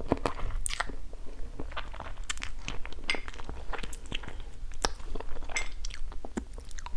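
A person chewing and biting food close to a clip-on microphone: a string of irregular mouth clicks and smacks, several each second.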